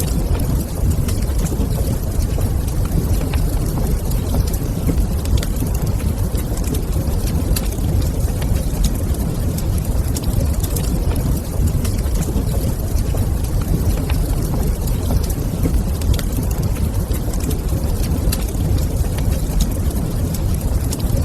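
Wood fire in a fireplace crackling, with scattered sharp pops and clicks over a steady low rumble.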